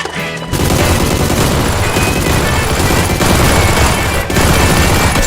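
Rapid, continuous gunfire sound effects, a sustained automatic-weapon fusillade starting about half a second in, over background music.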